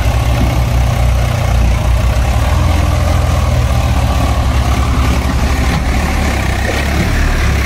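Heavy diesel engine running steadily under moderate load, with a deep, even throb.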